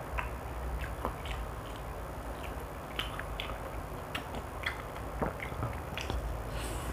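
Close-miked eating sounds of fried chicken: scattered short clicks and mouth smacks from chewing and from fingers picking crispy bits off the plate, over a low steady hum.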